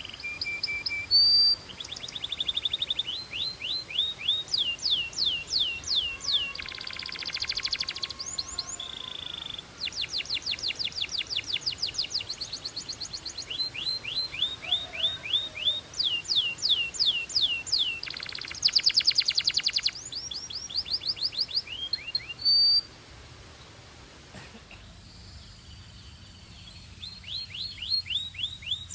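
Belgian canary singing: fast repeated trills of quick downward-sweeping high notes, broken by two dense buzzing rolls, one about seven seconds in and one about nineteen seconds in. The song stops for a few seconds and starts again near the end.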